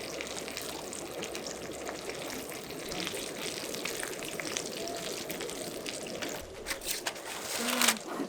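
Shrimp frying in hot oil: a steady crackling sizzle, louder for a moment near the end.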